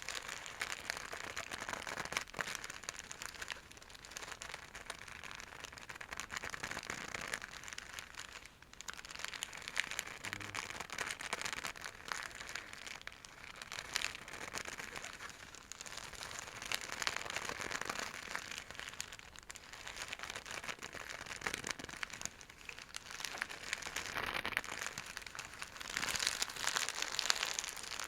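A scratchy silk bag being scratched and scrunched: a dense crinkly rustle full of fine crackles, swelling and easing every few seconds and loudest near the end.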